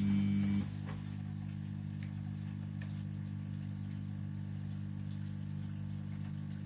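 Washing machine running with a steady low motor hum. About half a second in, the loudest part of the hum cuts off and a quieter, even drone carries on, with a few faint ticks.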